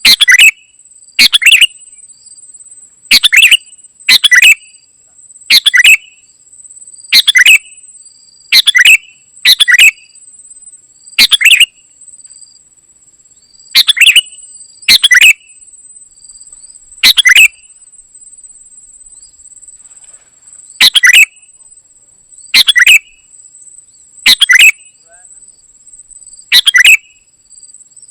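Kutilang emas bulbul calling: loud, short, separate calls repeated about every one to two seconds, with a longer pause after the middle. A steady high insect-like trill runs underneath.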